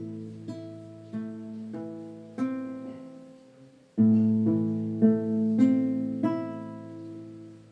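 Acoustic guitar picking slow notes that ring out and fade, with a new chord struck about four seconds in; it dies away near the end.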